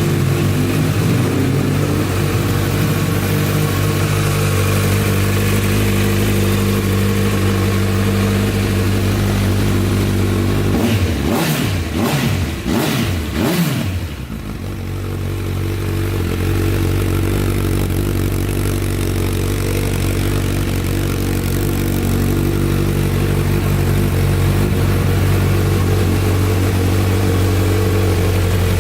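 Honda CB1000R's inline-four engine idling steadily, revved in several quick throttle blips about eleven seconds in, then settling back to idle.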